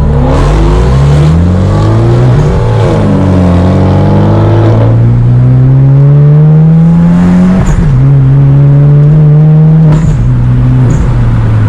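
Hyundai Genesis Coupe 2.0T's turbocharged four-cylinder running through a Tomei titanium single exhaust, accelerating through the gears: the engine note climbs repeatedly, drops sharply at an upshift nearly eight seconds in, then holds steady and steps lower again near the end.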